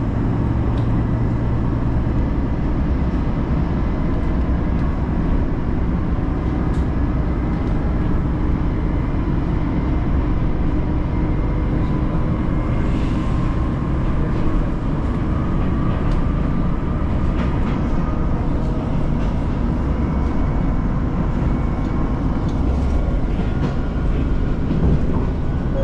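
Moka Railway diesel railcar running along the line, heard from inside the car: a steady rumble of engine and wheels on rail, with faint light clicks scattered through it.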